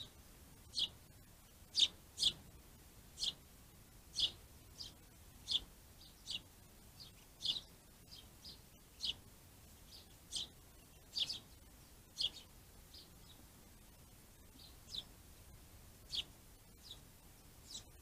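A small bird giving short, sharp call notes over and over, about one a second at an uneven pace, with a brief pause after the middle.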